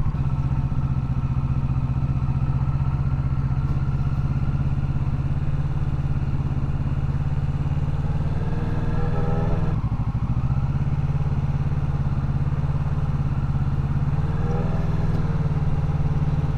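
Motorcycle engine running steadily at low speed through a slow U-turn, its note shifting briefly twice.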